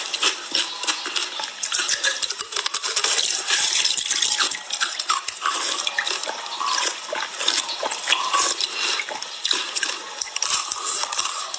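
Ice being bitten and chewed close to the microphone: a continuous run of crunches and crackles.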